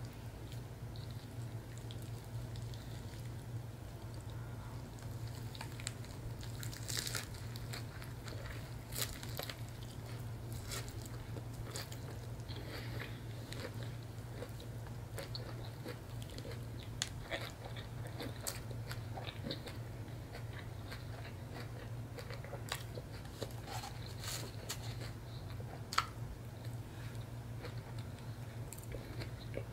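Close-up biting and chewing of a cajun catfish sandwich on cauliflower bread thins, with crunchy bites and many short mouth clicks scattered throughout, over a steady low hum.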